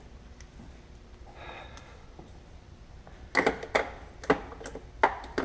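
Metal hand tools clinking against each other: a few sharp, separate clanks in the second half.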